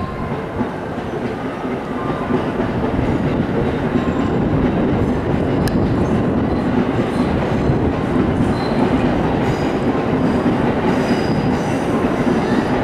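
E5 series Shinkansen train rolling slowly along the platform: a steady rumble of wheels and running gear that grows slightly louder.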